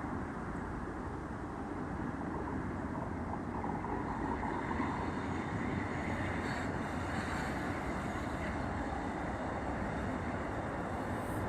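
Wind buffeting the microphone: a steady rumbling noise that grows slightly louder as it goes.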